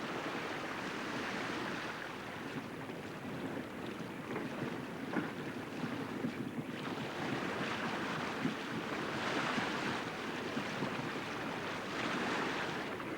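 Wind and sea rushing steadily, swelling and easing every few seconds, with a few brief sharp knocks.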